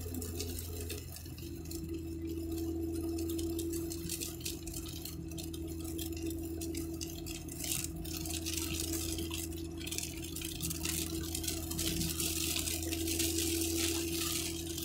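Car interior noise at motorway speed: a steady low road rumble with a constant whining tone above it, and a hiss that swells and fades.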